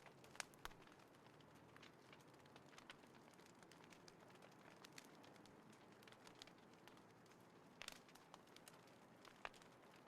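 Small wood fire crackling faintly: scattered sharp snaps and pops over a low hiss, with a few louder snaps about half a second in and again near the end.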